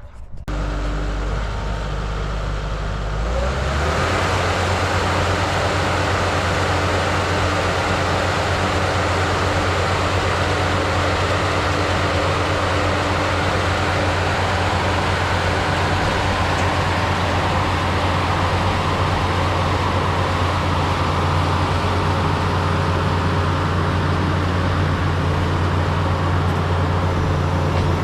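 Tracked skid steer's engine starting at a low idle, then throttling up about four seconds in and running steadily at high revs.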